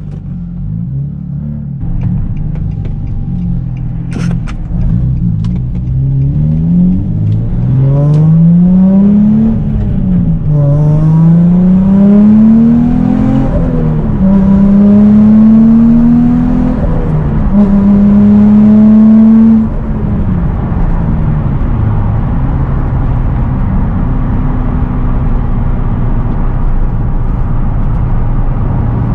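2003 Nissan 350Z's turbocharged 3.5-litre V6, fitted with an STS rear-mount turbo, heard from inside the cabin. It pulls hard through several gears, the note rising with each gear and dropping at each upshift from about six seconds in. Just before the twenty-second mark it settles into a steady, lower cruising drone.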